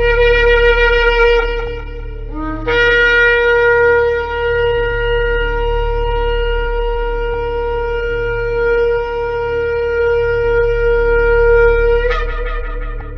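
Shofar blasts. One long blast ends about two seconds in. After a brief lower note, a new steady blast is held for about nine seconds and leaps upward in pitch near the end.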